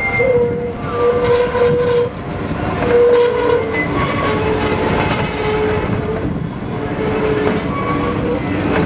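Tram running on rails with a steady rumble, broken by stretches of steady, whining tones lasting half a second to a second each, with short gaps between.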